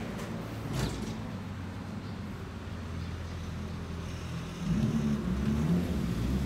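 A car engine running close by, over a steady low hum of traffic. A louder low engine note comes in about three-quarters of the way through.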